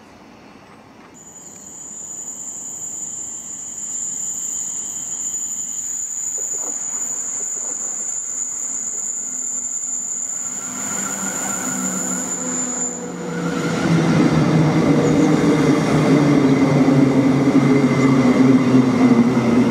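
South Western Railway Class 707 electric train approaching and running along the platform. Its wheel and motor noise grows steadily and is loudest from about fourteen seconds in as the carriages go by. A steady high whine sounds during the approach and stops about thirteen seconds in.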